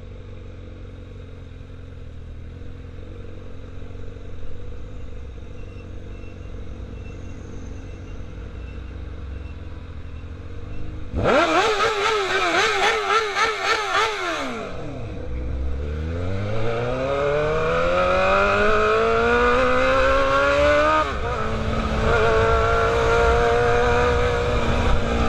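Motorcycle engine running steadily, then accelerating, its pitch rising for several seconds before dropping at a gear change near the end. About halfway through, a loud wavering sound cuts in for about three seconds.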